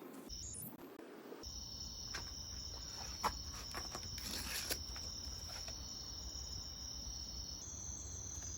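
Insects chirring steadily in a high, even whine, with a few scattered clicks over it.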